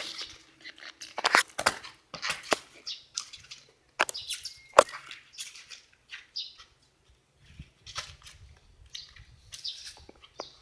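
Irregular scuffs, taps and quick footsteps of people moving about as they play soccer with a water balloon.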